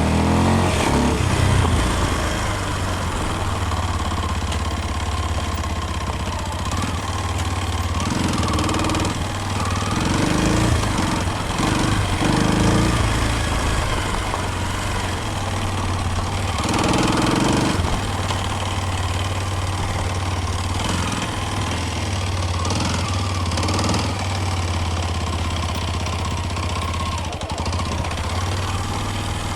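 Kawasaki KLX230's single-cylinder engine running continuously, with its note swelling briefly several times around the middle.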